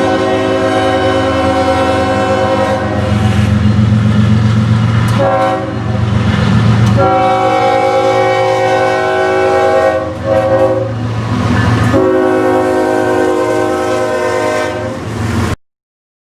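Locomotive air horn sounding a series of long blasts, a chord of several notes, over the low rumble of the passing train. The sound cuts off abruptly near the end.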